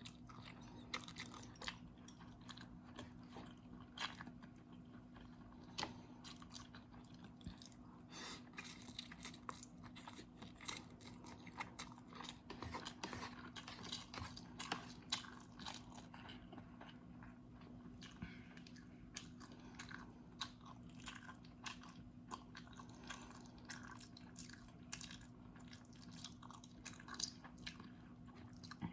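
Close-miked chewing and mouth sounds of someone eating instant noodles: a steady run of small wet clicks and crunchy bites, over a faint steady low hum.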